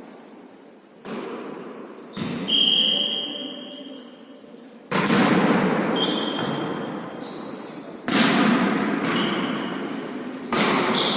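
A volleyball being struck and bouncing on a hard court floor: about six sharp thuds, each ringing on in a large hall's echo. A few short, high-pitched squeaks fall between them.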